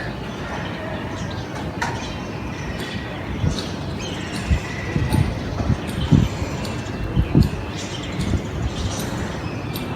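Steady background rumble with a few short low thumps around the middle, and faint bird chirps over it.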